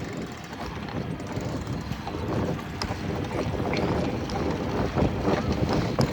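Wind buffeting the microphone of a camera on a moving bicycle, a steady low rumble, with a few faint clicks and rattles.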